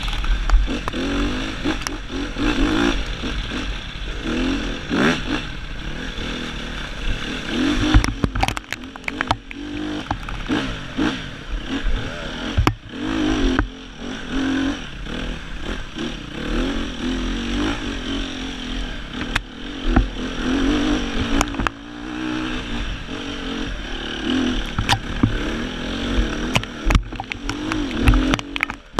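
Sherco 300 four-stroke enduro motorcycle's single-cylinder engine revving up and down over and over as it is ridden hard, with frequent sharp knocks and clatter from the bike hitting rough ground.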